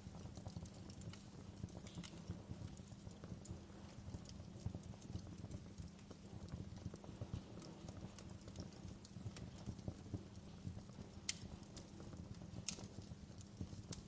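Wood fire crackling: scattered small pops and clicks over a low, steady rumble, with two sharper snaps near the end.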